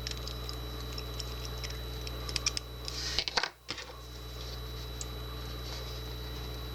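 Light metal clicks and ticks from small lock parts being handled as a pin is taken out of a Kwikset deadbolt, over a steady low hum.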